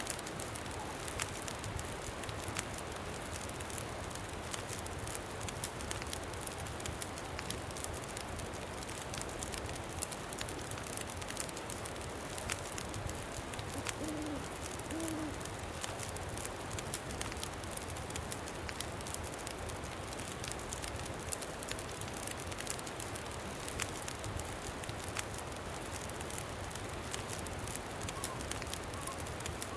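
Campfire crackling with frequent small pops over a steady wind. About halfway through, an owl hoots twice, low and brief.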